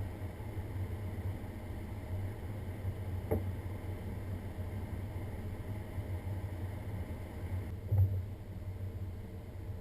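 Vehicle driving, a steady low rumble of engine and tyres, with a brief knock about three seconds in and a louder one about eight seconds in.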